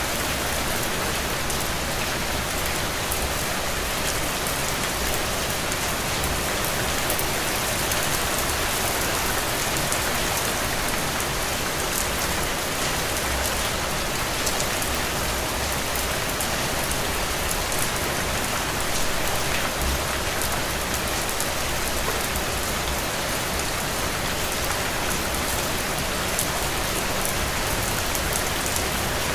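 Heavy, steady rain falling on the ground, a dense even hiss with fine individual drop patters and no thunder.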